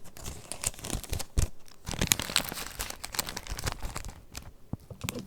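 Paper pages of a handmade junk journal being turned and handled, with rustling and crinkling and a few sharper crackles.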